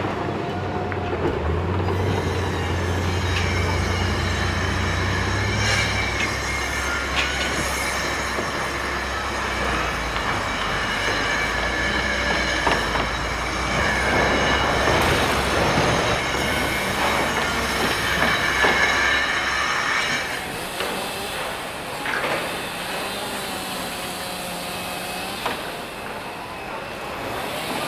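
Heavy machinery running with a steady low drone and high, drawn-out metallic squeals. The low drone drops away about twenty seconds in.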